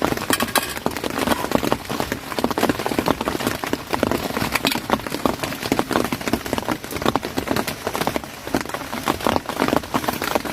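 Heavy rain: a dense, irregular patter of drops striking a surface.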